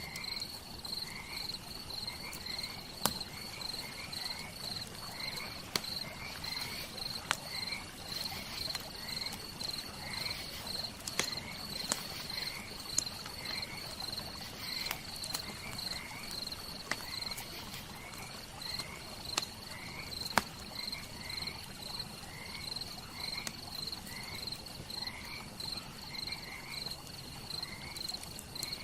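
Crickets chirping steadily, with a lower, short rising chirp repeating about once or twice a second, over the irregular sharp pops and crackles of a wood campfire, a few of them much louder than the rest.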